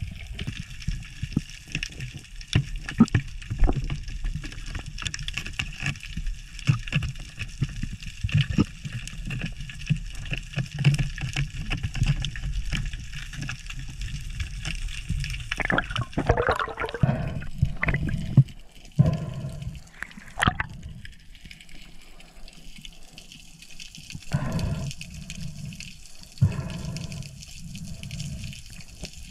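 Water sloshing and gurgling around the camera, with many scattered sharp clicks. About halfway through come a few short gurgling sweeps falling in pitch.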